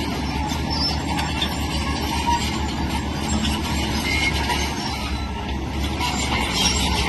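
Heavy crawler earthmoving machine working: steady diesel engine rumble with continuous metallic clanking and occasional squeaks of steel tracks.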